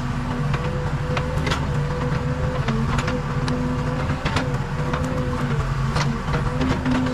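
Case 580 Super K backhoe loader's four-cylinder diesel engine running steadily at working speed, with irregular sharp clicks and knocks over the drone.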